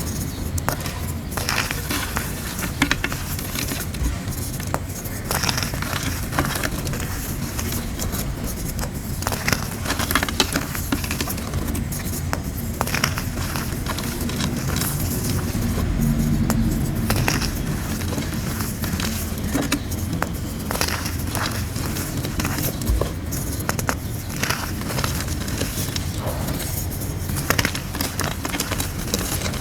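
Pressed grey gym chalk shapes being crushed, a dense, irregular run of crunches and crumbling crackles over a low rumble.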